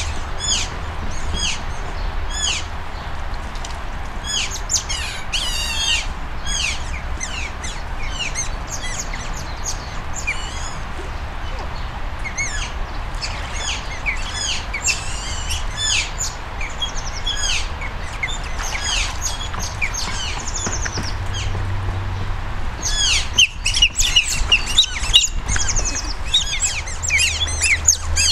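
Asian small-clawed otters giving rapid, high-pitched chirping calls while they wait for food. The calls come thick and fast throughout and grow denser and louder over the last few seconds.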